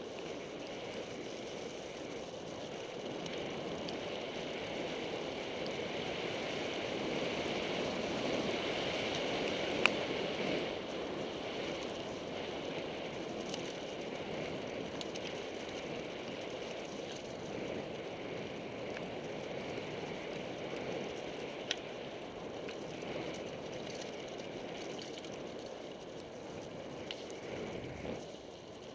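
Mountain bike descending a wet trail in heavy rain: a steady rushing of tyres, water and wind, with a sharp knock about a third of the way in and another about three quarters through.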